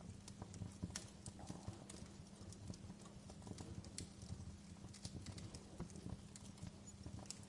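Wood fire burning in a fireplace, crackling with many irregular sharp pops over a low, steady rumble of flames.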